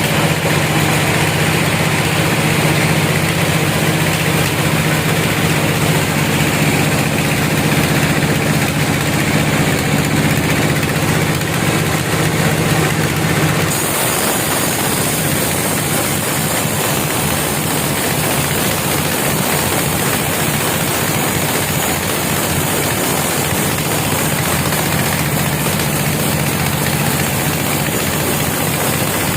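Sawmill machinery engine running steadily, with an abrupt change in its sound about halfway through.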